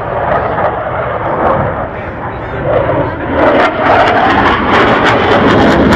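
Panavia Tornado's twin jet engines in a display pass: a loud rushing roar that grows louder about three seconds in and turns crackly.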